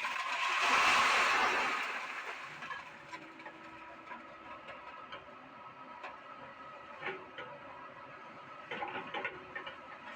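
Doosan excavator running with a steady mechanical whine, a loud hissing surge in the first couple of seconds, and metal clanks about seven and nine seconds in as scrap iron is handled.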